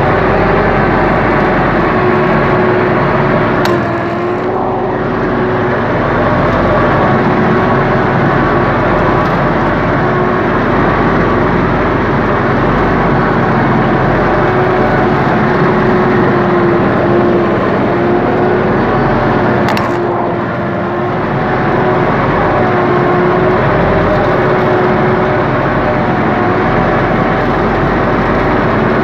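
Universal U-650 tractor's four-cylinder diesel engine running steadily under load while ploughing, heard from the driver's seat. Its note dips briefly twice, about 4 seconds in and again about 20 seconds in, each time with a short click.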